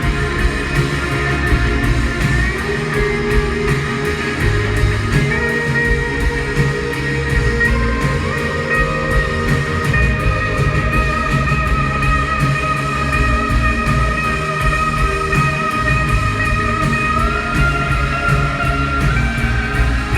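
Live band playing an instrumental passage, guitars over a steady drum beat, with held high notes that step upward in pitch a few times.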